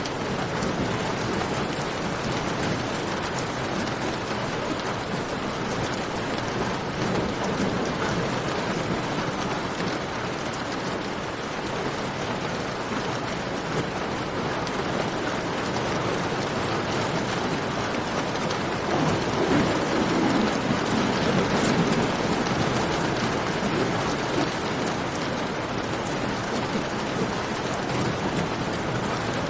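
Steady rain in a cave, with the fine, sharp ticks of a campfire crackling over it. About twenty seconds in, the rain swells louder for a few seconds, with a deeper rumble.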